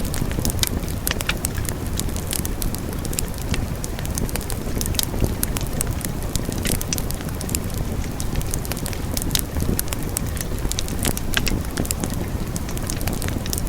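Wood fire burning, with a steady low rumble under frequent, irregular sharp crackles and pops.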